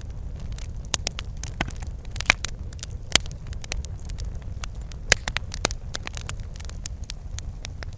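Wood fire crackling and popping, with a steady low rumble of the burning under a scatter of irregular sharp pops, a few of them louder.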